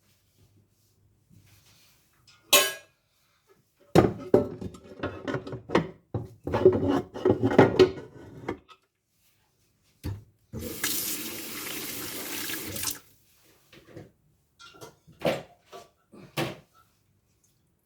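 Dishes being washed by hand at a kitchen sink: a knock, then a spell of dishes clattering and knocking together. The tap runs for about two seconds in the middle, followed by a few light knocks.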